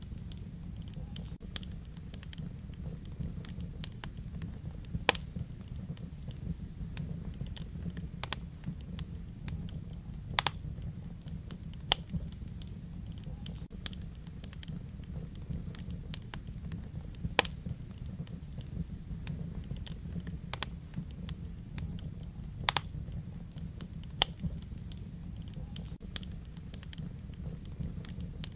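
Wood fire burning in a fireplace: a steady low rumble of flames with irregular crackles and a handful of sharper pops.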